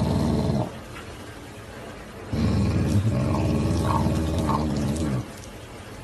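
A pet growling: two long, low growls, the second carrying a few short higher notes.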